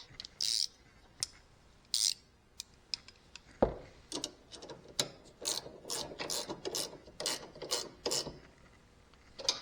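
Ratchet wrench with a 9/16 socket clicking in short back-and-forth strokes, tightening a bolt on a zero-turn mower's lap-bar linkage, after a few separate clicks of the tool being fitted.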